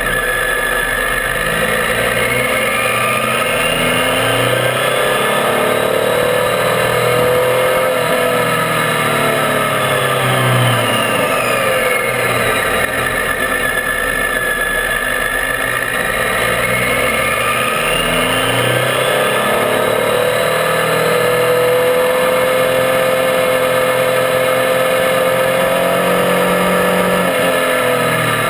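Triumph Tiger 800's three-cylinder engine running under way, its revs rising and falling several times through the bends, over a steady haze of road and wind noise.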